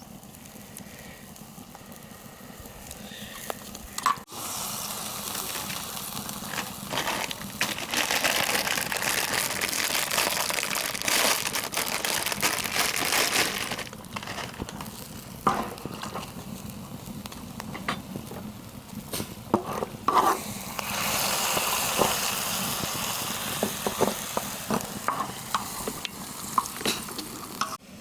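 Food sizzling in pork fat on a cast-iron cauldron-lid griddle. The hiss swells loud in two long stretches, with short clicks and scrapes of the food being turned.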